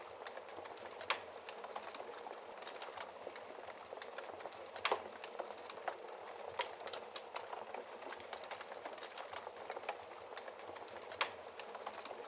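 Wood fire crackling in a fireplace: a steady hiss with many small crackles and a few louder pops, the loudest about five seconds in.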